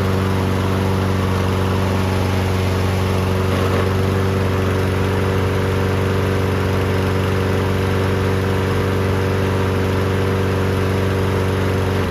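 Briggs & Stratton engine on a Toro walk-behind lawn mower running steadily at constant speed.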